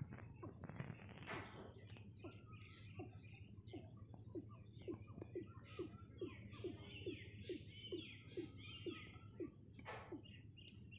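Faint birds chirping: a run of short falling notes about three a second, with higher twittering above them, over a steady low hum.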